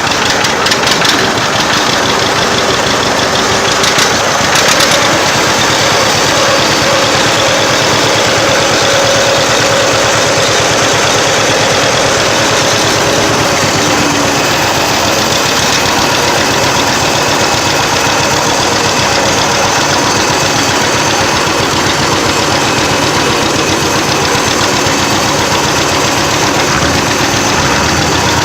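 Old tractor engine running steadily at close range, heard from the driver's seat, with fast even firing pulses.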